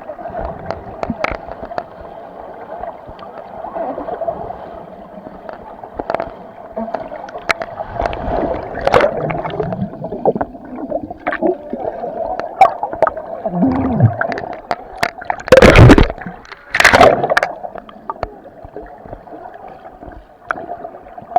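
Water gurgling and splashing around people swimming and ducking under, with two loud splashes about fifteen and seventeen seconds in.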